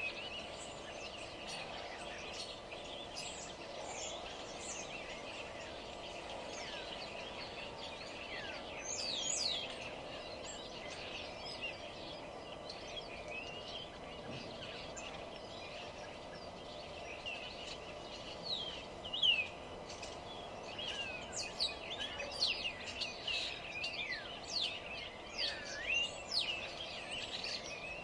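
Several songbirds chirping and singing in overlapping short calls over a steady background hum. The chorus gets busier and louder in the second half.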